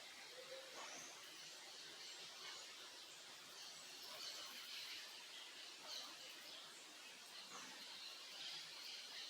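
Small birds chirping and calling faintly, many short overlapping high notes, over a steady soft hiss.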